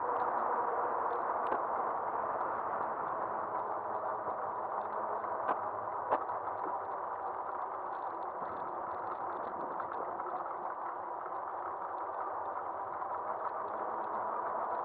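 Aostirmotor S17 e-bike rolling on pavement, picked up by a camera on the front of the bike: steady wind and tyre noise with an even whine, and two sharp clicks about five and six seconds in.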